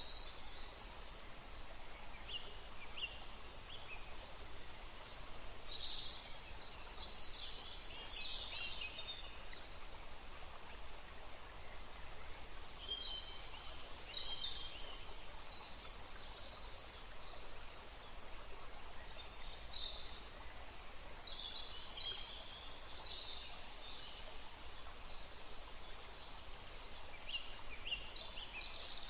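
Woodland ambience: birds calling on and off in short, high chirps and whistles, in clusters, over a steady background hiss with a low rumble.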